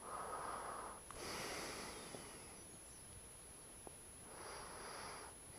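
A person breathing close to the microphone: three soft breaths, two of them back to back near the start and one more about four and a half seconds in.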